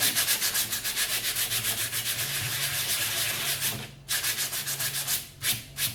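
Sandpaper rubbed quickly back and forth over the dried cement-mortar coat on a styrofoam faux brick, roughening it to a brick-like texture. Rapid, even strokes, about five or six a second, pause about four seconds in, then a few separate strokes near the end.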